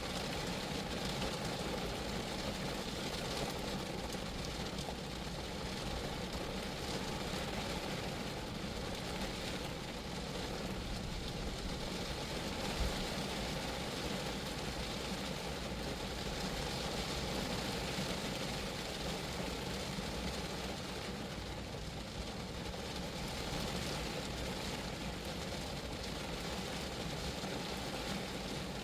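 Steady rain falling on a Geo Metro's body and roof, an even wash of drops with a low rumble underneath. One sharper tap about thirteen seconds in.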